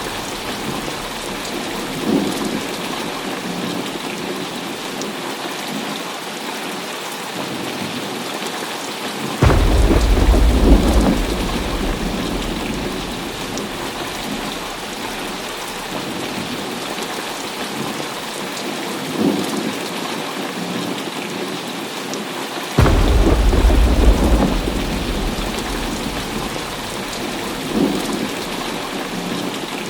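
Heavy rain falling steadily in a thunderstorm. Two loud claps of thunder break in, about a third and three quarters of the way through, each rumbling for a couple of seconds before it fades back into the rain. Softer rumbles come in between.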